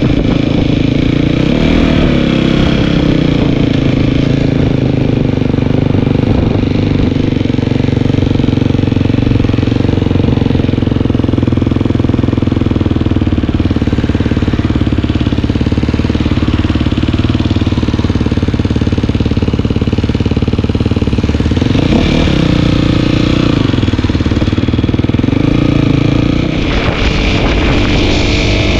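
Dirt bike engine running steadily while being ridden, its pitch dropping and rising again a few times in the last third.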